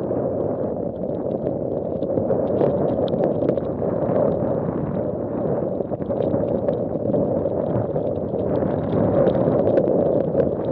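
Tropical-storm wind gusting across the microphone: a steady, loud rushing noise that swells and eases, with faint scattered ticks.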